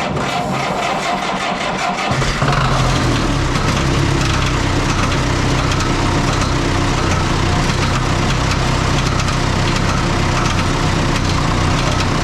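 Oliver 66 diesel tractor engine cranked by the starter for about two seconds, then catching and running steadily.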